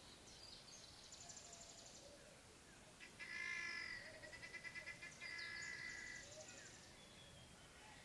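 Wild birds calling: a fast, high trill about a second in, then louder chattering calls with rapid pulsing from about three to six seconds in, and faint falling whistles near the end, over a low hiss.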